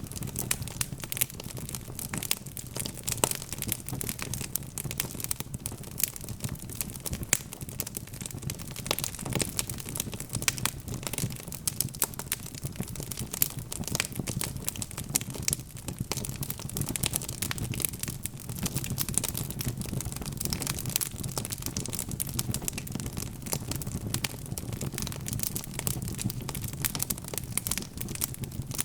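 Wood fire crackling and popping continuously, dense sharp snaps many times a second over a steady low rumble of the burning.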